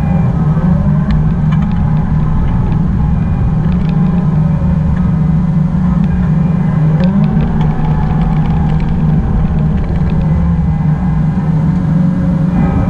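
Excavator's diesel engine running steadily at working speed, with small rises and falls in pitch as it works.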